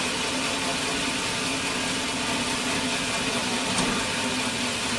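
Sawmill machinery running steadily with a constant low hum and no change in load.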